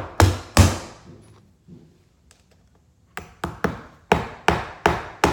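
Hammer driving nails through the holes of a flat metal carpet transition strip into the floor. Two sharp blows at the start, a pause of about two seconds, then a run of about seven quicker blows.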